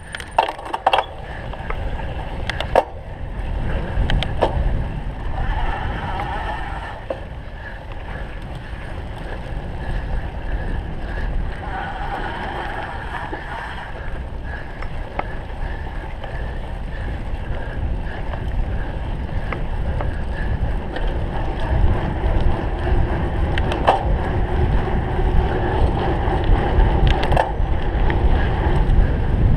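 Rumble and rattle of a cyclocross bike riding over rough ground, with wind noise on the microphone, growing louder toward the end, and a few sharp clicks near the start.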